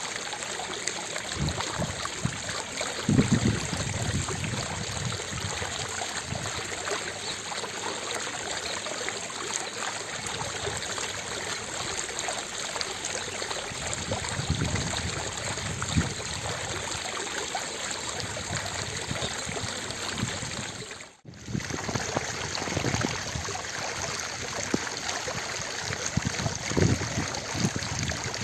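Fountain water splashing and falling steadily, with deeper surges now and then. The sound drops out for an instant about two-thirds of the way through.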